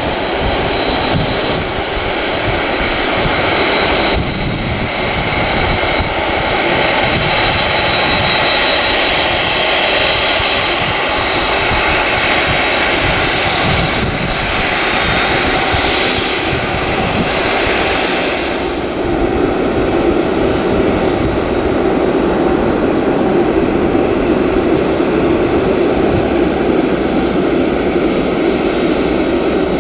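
Jet noise from a Boeing 747-8F freighter's four GEnx-2B67 turbofans, loud and steady, growing a little louder and deeper about two-thirds of the way through.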